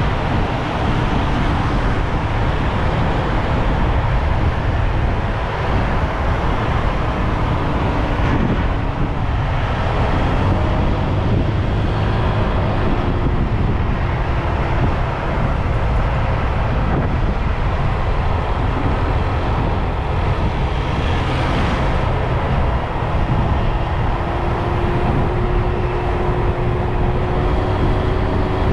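Motorbike engine running while riding, its pitch gliding slowly up and down with speed over a steady, loud low rumble.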